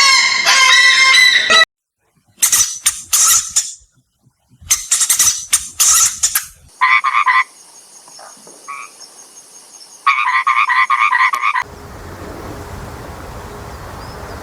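Frogs croaking in runs of short, rapid pulses, in several separate edited clips, with a steady noisy hiss in the last few seconds.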